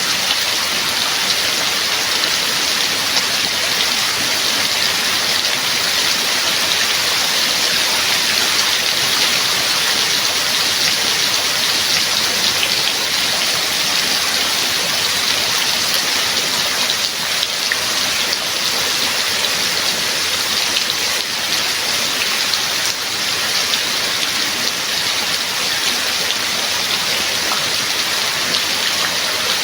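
Steady heavy rain falling, a dense even hiss of drops.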